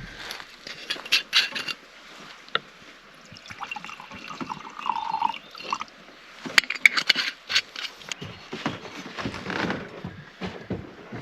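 Whisky poured from a bottle into a glass: a pouring sound in the middle that rises slightly in pitch as the glass fills. Around it are sharp clicks and clinks of the bottle and glass being handled.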